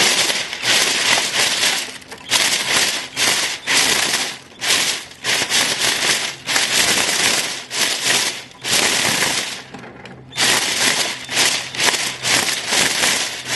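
Running lawnmower shredding a plastic toy fed to it a little at a time: repeated bursts of crackling and rattling as the blade strikes and throws the pieces.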